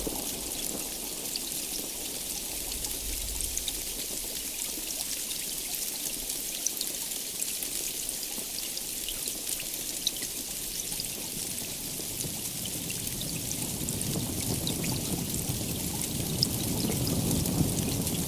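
Heavy rain falling steadily, a dense hiss with the pattering of individual drops. In the last few seconds a low rumble of thunder swells beneath the rain.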